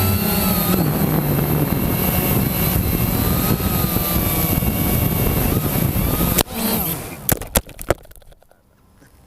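Quanum Nova quadcopter's brushless motors and propellers whining in flight, their pitch shifting, with wind noise. About six and a half seconds in a sharp crash hits, followed by a few more knocks, and the motor noise stops: the drone falling after it gave out in the air.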